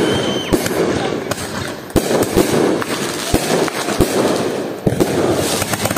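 Many fireworks going off at once: irregular loud bangs over continuous crackling, with a few faint whistles from rising shells.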